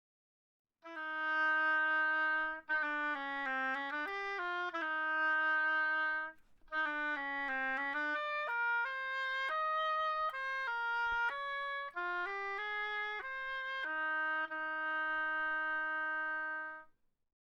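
A solo wind instrument playing a melody: one line of notes in several short phrases, ending on a long held note.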